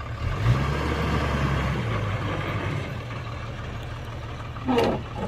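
Heavy diesel engine of construction machinery running, pulling harder for a moment with a short rise in pitch about half a second in, then settling back to a steady lower running after about two seconds. A brief shout near the end.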